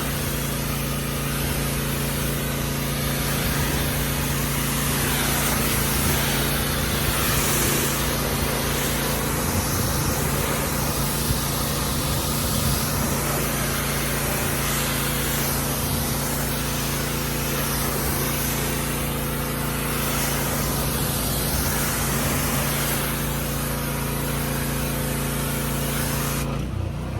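An engine running steadily under a shifting hiss of water spray.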